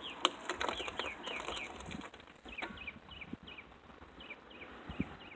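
Small birds chirping: a run of short, falling chirps several times a second, with a few soft knocks among them.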